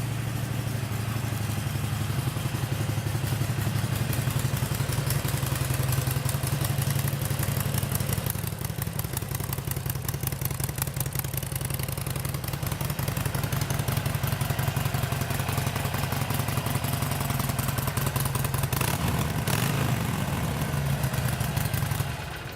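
Harley-Davidson Sportster 883's fuel-injected 883cc V-twin running steadily at idle through its exhaust, with dense even firing pulses. The engine is shut off near the end.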